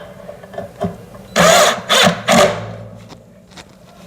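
Power drill-driver running in three short bursts about a second and a half in, driving screws into the underside of a metal-framed TV stand, with small clicks of handling around it.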